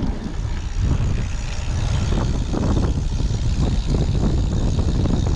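Steady travel noise while moving: a churning low rumble with a rushing hiss above it, typical of wind and road noise heard on the move.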